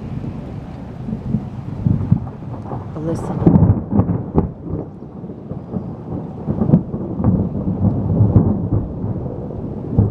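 Thunder rolling and crackling in a long series of rumbles, swelling loudest about four seconds in and again near seven seconds.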